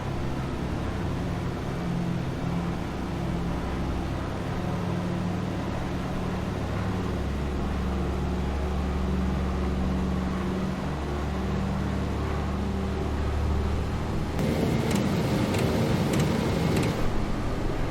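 DC-3's twin engines droning steadily, the engine note shifting a little about seven seconds in. About fifteen seconds in, a rush of noise with rattling joins the drone for a couple of seconds.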